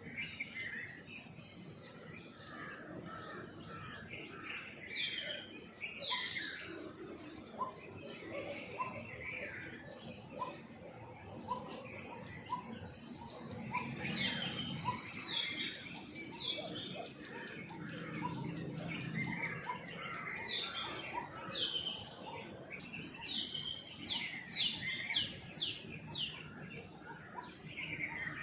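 Several small birds chirping and calling over one another in a morning chorus: short chirps and quick falling whistled notes, with a rapid run of notes near the end.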